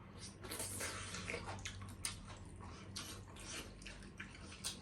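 People chewing and biting into grilled meat close to the microphone: irregular, short wet mouth sounds and smacks, over a steady low electrical hum.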